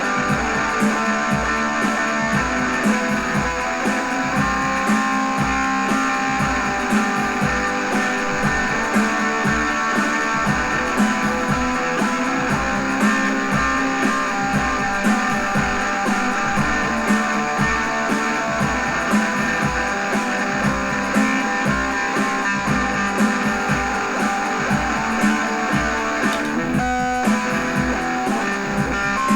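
Instrumental guitar cover of a rock song: guitar playing over a steady drum beat, with a brief break about 27 seconds in.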